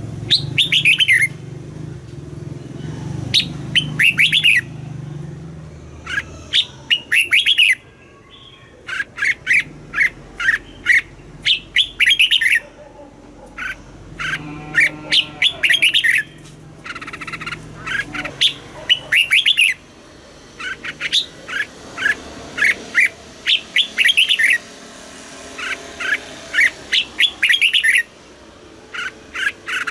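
Red-whiskered bulbul singing: short, quick phrases of clear, high notes, repeated every one to two seconds.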